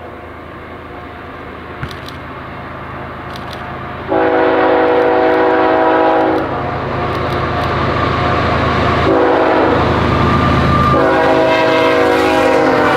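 A train approaching with a rising rumble and sounding a chord horn three times: a blast of about two seconds starting about four seconds in, a short one near nine seconds, and a longer one from about eleven seconds.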